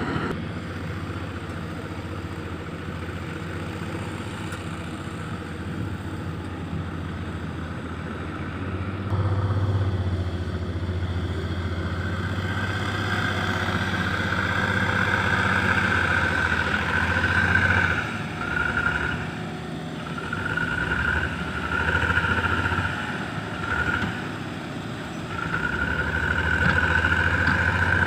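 Fully loaded diesel dump truck engine running steadily, pulling harder from about nine seconds in. In the second half a higher whine rises and breaks off several times as the engine works under the load.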